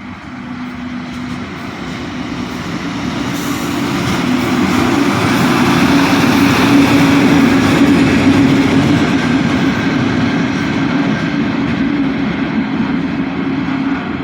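A train passing on the rails, growing louder to a peak about halfway through and then easing slightly, with a steady low tone under the rumble of its wheels.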